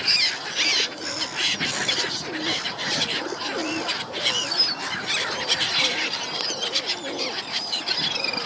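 A crowd of birds calling over one another: many overlapping high chirps and squeals with some lower calls mixed in, steady throughout.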